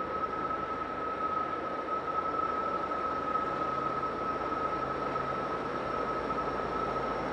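Heavy freight train running past, a steady rumble with a single high-pitched whine held over it, growing slightly louder.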